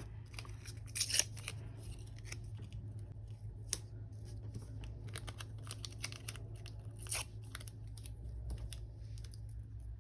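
Scattered small clicks, snips and paper rustles from handling sticker sheets, over a steady low hum.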